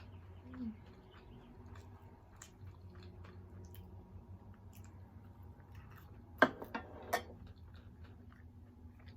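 Close-up chewing and mouth sounds of someone eating boneless chicken wings and fries, with small scattered clicks and three sharp clicks about six to seven seconds in.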